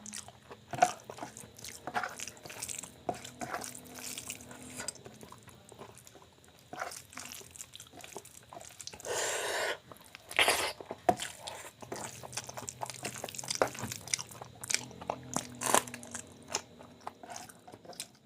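Close-miked eating of soft rice with mashed bharta and raw onion: wet chewing, lip smacks and many small mouth clicks, with one noisier stretch of about a second around nine seconds in.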